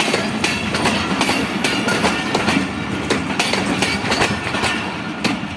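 Passenger train coaches rolling past as the express pulls out, the wheels clicking over the rail joints a few times a second.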